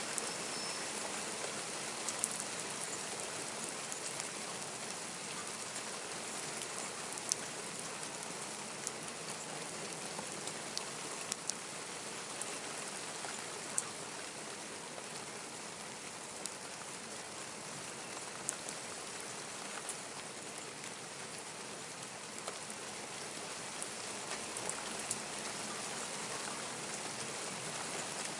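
Steady rain falling, an even hiss with scattered sharp drips and taps of drops striking nearby surfaces.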